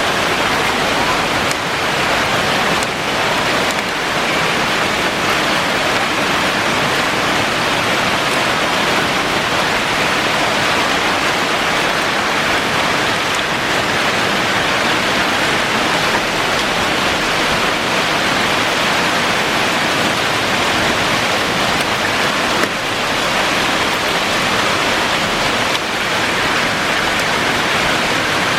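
Heavy rain with small hail falling, a steady, even rush of water.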